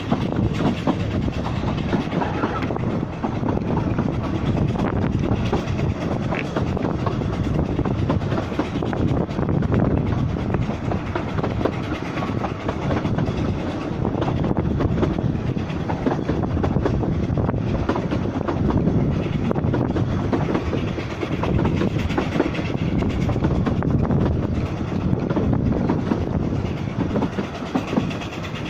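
Narrow-gauge railway carriages running along the line, heard from the carriage window: a steady rumble from the wheels with a rapid clickety-clack of clicks over the track.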